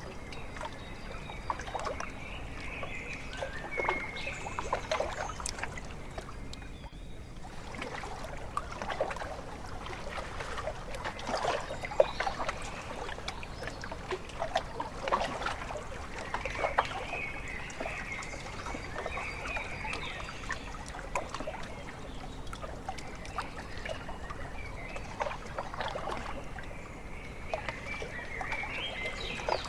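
Small lake waves lapping and splashing against the shore in many quick little splashes, with birds calling now and then, a few times.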